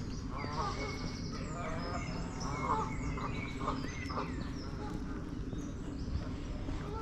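Geese honking, a run of short calls over the first four seconds or so, with small birds chirping in the background.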